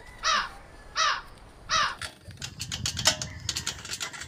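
A bird calls three times, evenly spaced, each call a short cry falling steeply in pitch. In the second half come low rumbling and a run of small clattering knocks.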